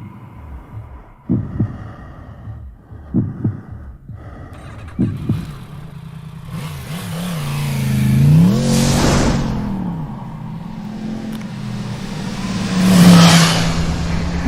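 Four slow, deep double thumps like a heartbeat, then a motorcycle engine revving up and down with two loud whooshing passes in the second half.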